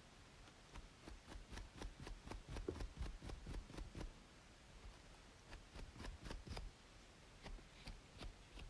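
Scratching along a scalp between braids: a fast run of short scratchy strokes, a pause, then a shorter run about five and a half seconds in. Underneath is a steady faint white-noise hiss.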